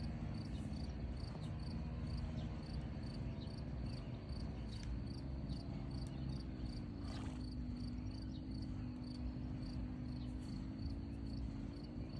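Crickets chirping in an even rhythm, about four to five chirps a second, over a low steady hum whose pitch dips slightly in the middle.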